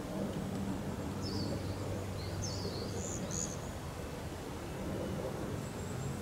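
Steady outdoor background noise with a low hum, and a few short, high bird chirps between about one and three and a half seconds in.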